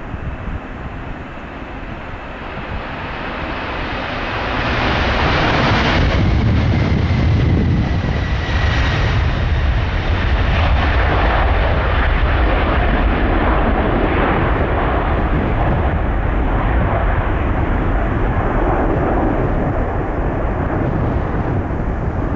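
Jet airliner departing at takeoff power and passing by. The engine noise swells over the first few seconds and a whine falls in pitch as it goes past, then a loud, deep rumble carries on.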